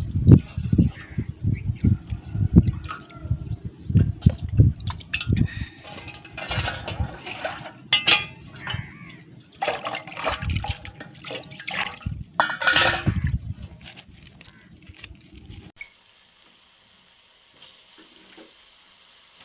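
Water sloshing and splashing in a vessel as prawns are washed by hand, with repeated low knocks and bursts of splashing. It gives way to a faint background about three-quarters of the way through.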